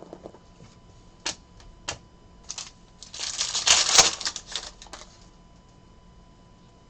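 Trading cards being handled: a few separate sharp clicks, then about two seconds of dense crackling and rustling that is the loudest part.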